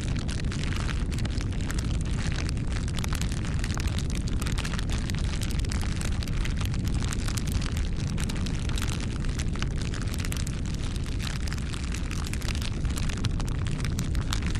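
Wood fire burning: a steady low rumble with dense, irregular crackles and pops from the burning wood.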